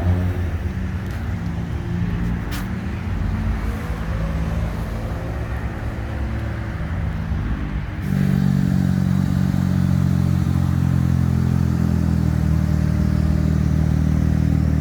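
Car engine idling steadily. About eight seconds in, the sound turns abruptly louder, with a different engine note.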